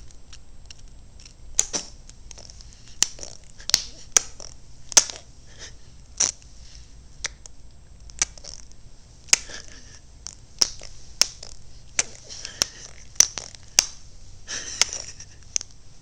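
A baby clicking his tongue and smacking his mouth after eating: irregular sharp clicks and wet smacks, a burst of several close together near the end.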